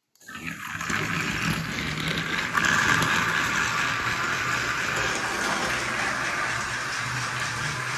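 Battery-powered motorized toy train running along plastic track: a steady whirring of the small motor and wheels, a little louder about two and a half seconds in.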